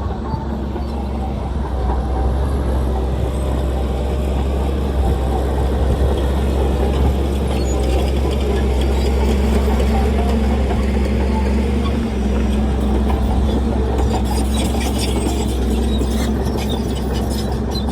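Heavy diesel earthmoving machine engine running steadily under load, with a spell of light clatter near the end.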